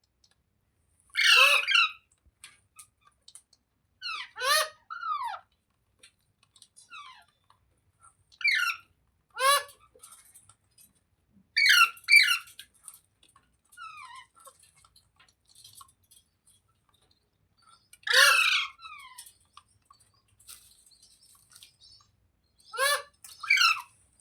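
Rose-ringed parakeet (Indian ringneck) giving short, shrill calls, singly and in quick pairs, with pauses of a few seconds between them.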